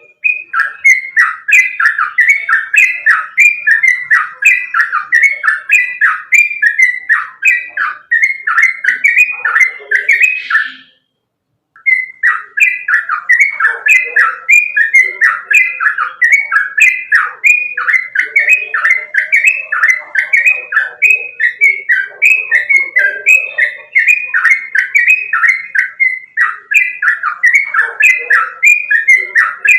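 Yellow-vented bulbul (trucukan) singing a fast, continuous run of repeated down-slurred whistled notes, about three a second. The song breaks off for about a second near the middle, then resumes.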